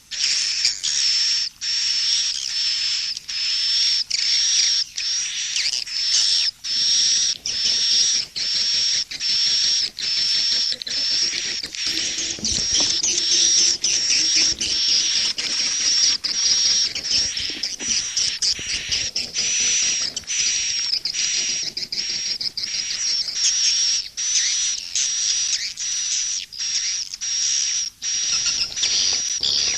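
Recorded swiftlet calls: a dense, high-pitched twittering chorus of swiftlets, pulsing with short breaks about once a second. It is a swiftlet-house lure recording, played to draw swiftlets in to nest.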